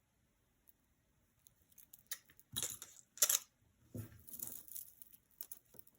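Costume jewelry being handled: scattered light clicks and short rustles, with two sharper clicks about two and a half and three seconds in, after a second or so of near silence.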